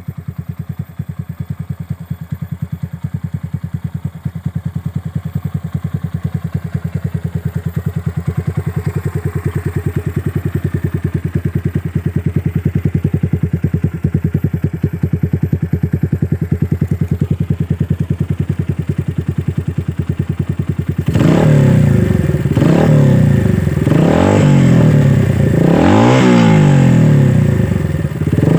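Viar Cross X 150's single-cylinder four-stroke engine through its stock exhaust, idling with a steady even beat, then revved in several quick blips about three-quarters of the way through.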